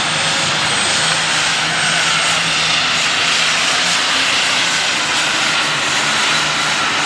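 Turbocharged diesel Super Stock pulling tractor running flat out under full load as it drags the weight sled down the track, a loud, steady engine and exhaust noise with a faint high turbo whine on top.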